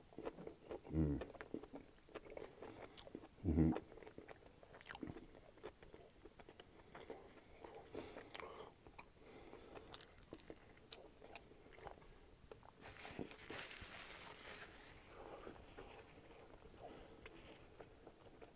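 Close-miked eating of a juicy McDonald's McDouble with pickle, tomato and mayo: soft wet chewing with many small mouth clicks. Twice in the first few seconds there is a short low hum from the eater, the second louder.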